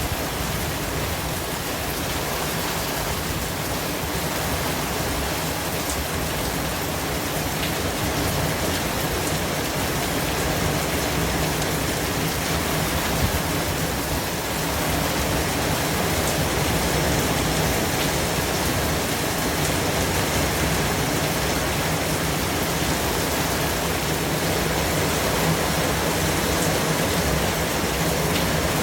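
Steady white-noise track: an even, unbroken hiss across all pitches, much like heavy rain.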